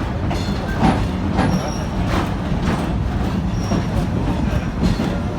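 Passenger train cars running on the track, a steady low rumble with a few clanks and brief faint high squeals from the wheels.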